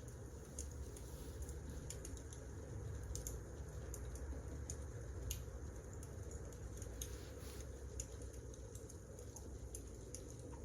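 Wood fire crackling: irregular small pops and snaps over a low steady rumble.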